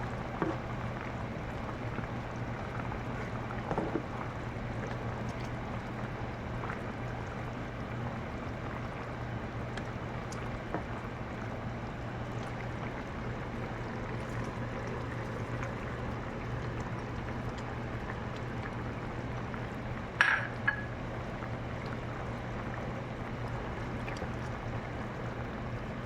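A steady low hum under an even hiss, with a few faint ticks and one short, sharp clink about twenty seconds in.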